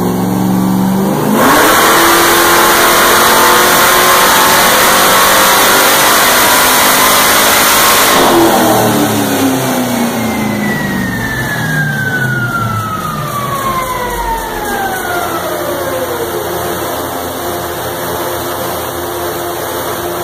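Supercharged big-block V8 in a Camaro under a dyno pull. It revs up from idle about a second in and runs loud at full throttle for about seven seconds, then the throttle closes and the revs drop back to idle. Afterwards a long whine falls steadily in pitch as the wheels and dyno rollers coast down.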